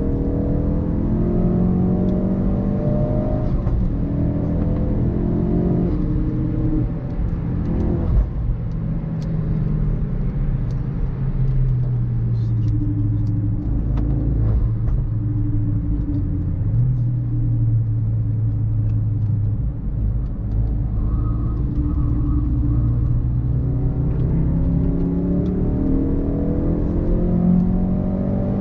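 Mk3 Ford Focus RS's 2.3-litre turbocharged four-cylinder engine pulling hard on track, its pitch climbing and dropping back with each upshift. It holds a steadier, lower note in the middle stretch, then climbs through the gears again near the end, with one short knock about eight seconds in.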